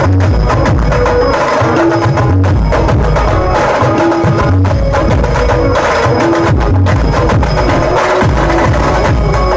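Loud amplified music from a Maharashtrian banjo-party band, with heavy drums and bass under repeating melodic notes in a steady beat.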